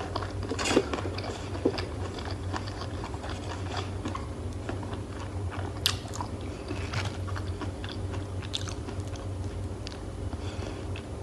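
Close-miked chewing of crispy fried food, with crunching and crackling throughout. A few sharper crunches stand out about a second in, just before two seconds, and near the middle.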